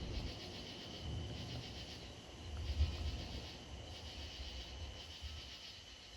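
Night insects chirping in a steady pulsing chorus, several high pulses a second over a constant high drone, with a low rumble underneath that swells about three seconds in.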